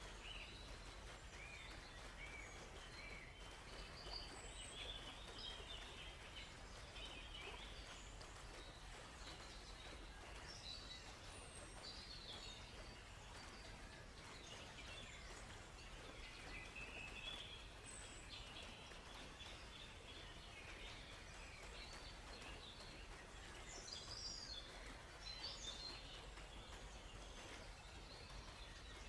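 Faint chorus of several songbirds chirping and calling, many short overlapping notes, over a steady soft background hiss.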